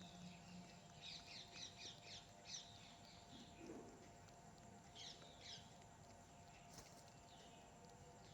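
Small birds chirping faintly in short, high calls: a quick run of chirps about a second in and two more around five seconds in.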